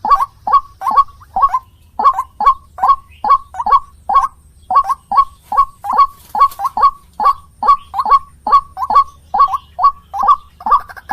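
White-breasted waterhen (ruak-ruak) calling: a steady run of short notes, each falling in pitch, a little over two a second and some in quick pairs.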